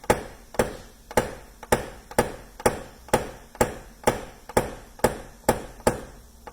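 Paintless dent repair knockdown: a hammer tapping a VIP edge knockdown tool against a car door's sheet metal to knock down the last of a door ding. The light, sharp taps come evenly at about two a second, each with a short metallic ring.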